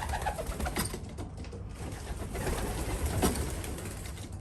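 Racing pigeons cooing in a loft, low throaty coos with the odd click or flutter among them.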